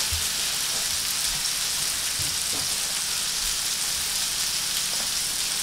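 Sockeye salmon steaks and asparagus sizzling steadily in butter on an electric griddle as they sear.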